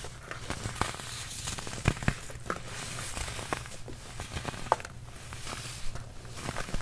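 Baking soda being crushed and crumbled, with irregular crisp crunches and crackles.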